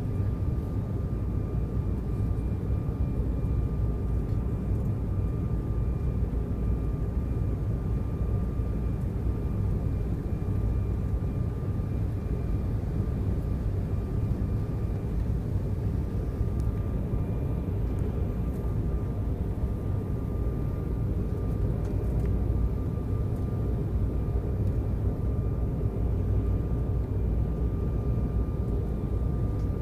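Steady cabin noise inside an Embraer 190 jet airliner: a low, even rumble of the engines and airflow, with a thin steady whine above it.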